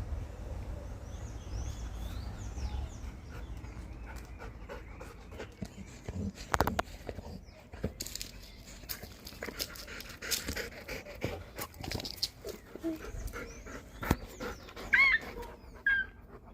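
A dog panting, with a few short high-pitched calls near the end.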